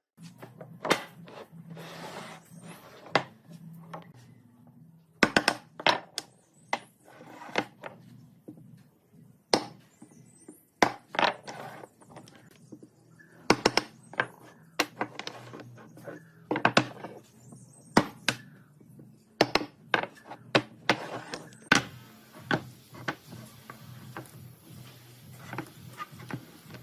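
Irregular knocks and clacks of tools and pieces of wood being handled and set down, some sharp and loud, over a faint low hum.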